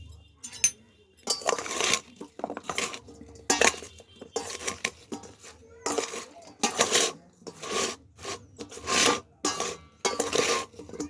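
A spoon scraping and clinking against a bowl of cut fruit, about a dozen short strokes in a steady rhythm, as the seasoning is worked in.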